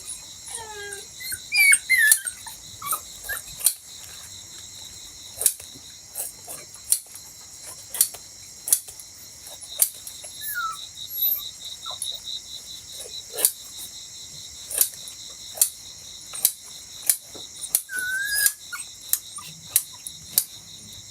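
A dog whining in short cries that bend up and down in pitch, bunched in the first few seconds and again near the end, over steady cricket chirring, with many sharp clicks throughout.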